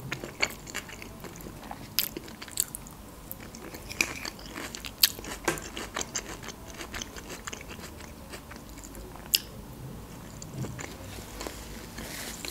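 A person chewing a mouthful of food close to the microphone: a steady run of small wet mouth clicks, with a few louder, sharper ones scattered through.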